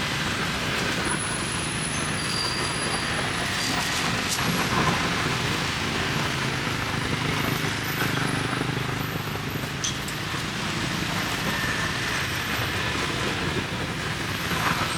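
Steady street traffic noise, a continuous mix of passing vehicles with no single event standing out.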